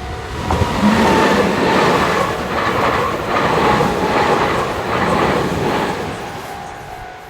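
Meitetsu electric train passing, its wheels clattering over the rail joints in a regular rhythm. It builds up about half a second in and fades near the end.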